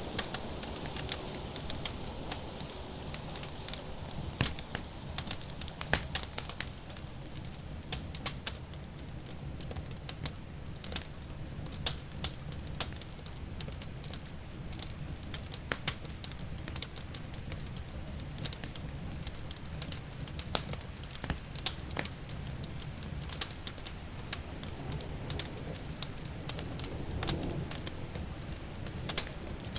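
Wood fire in a fireplace crackling and popping, with many sharp irregular snaps over a low, steady rumble.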